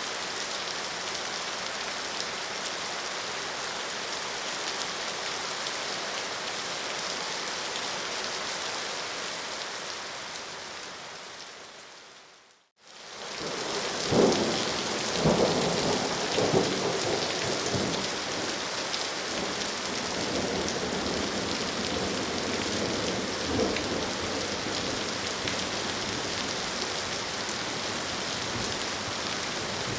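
Steady rain that fades out about twelve seconds in, then starts again at once with heavier rain and thunder rumbling and cracking about a second later and once more near the end.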